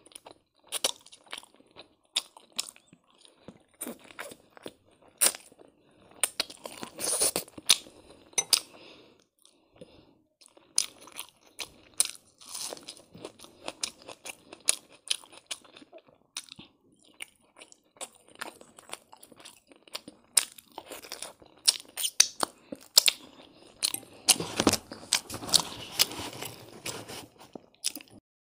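Close-miked mouth sounds of a person eating noodles by hand: chewing with sharp, wet clicks at irregular intervals. They are busiest about a quarter of the way in and again near the end.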